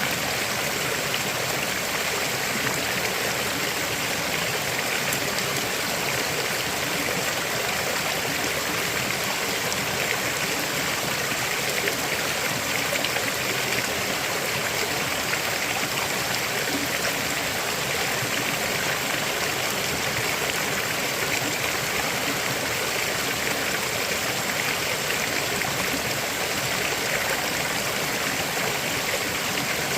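River water flowing steadily over rocks: an even, unbroken rushing and babbling.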